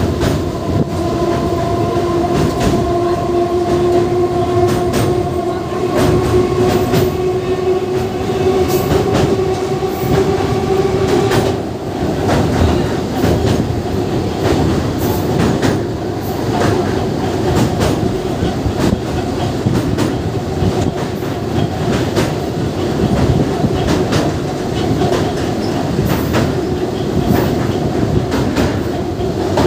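Train running on rails, with wheels clicking over rail joints in a steady loud rumble, and a whine that slowly rises in pitch and stops about a third of the way in.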